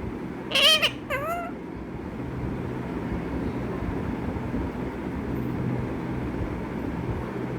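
Pet parrot mimicking a cat's meow: two short, bending meow calls in quick succession, about half a second and one second in, then only a steady low background hum.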